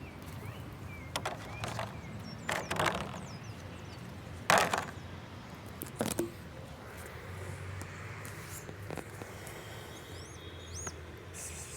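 A handful of sharp knocks and clatters, the loudest about four and a half seconds in, with birds chirping briefly near the end.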